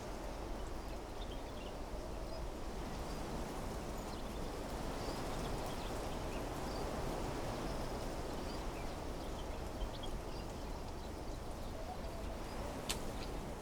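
Wind blowing steadily through trees, with short bird chirps scattered over it and a single sharp click near the end.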